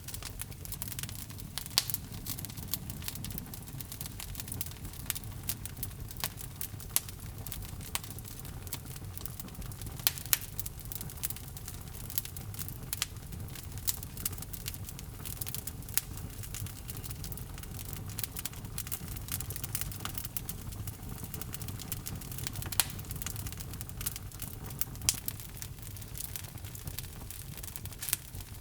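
Log fire crackling in a fireplace: irregular sharp pops and snaps over a steady low rumble of burning.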